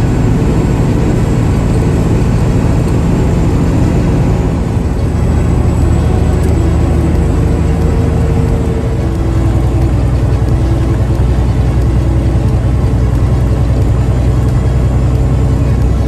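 Vehicle driving at highway speed: a steady engine drone with road noise, its low tone stepping a little about four seconds in and again about nine seconds in.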